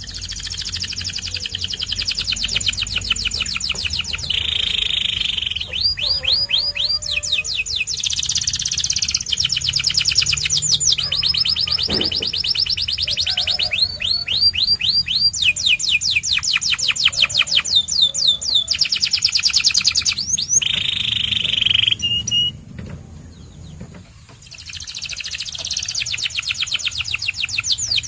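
White domestic canary singing a long song of rapid trills. Each phrase is a fast run of repeated notes, and the canary switches to a new tour every second or two. It pauses for about two seconds near the end, then starts again.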